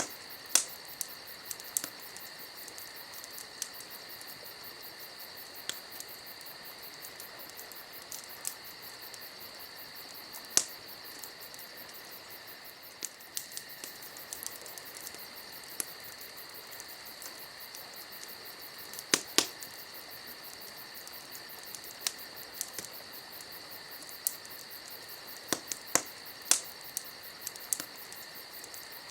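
Campfire crackling, with scattered sharp pops, the loudest a little past the middle and again near the end, over a steady chorus of crickets chirping.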